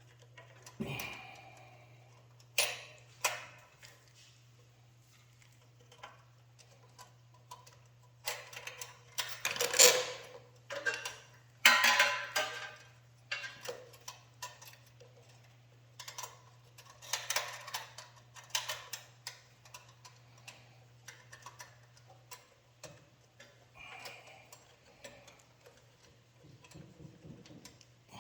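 Small metal parts clicking and rattling in irregular clusters as hands fit a return spring and cable to a carburetor's throttle linkage, over a faint steady low hum.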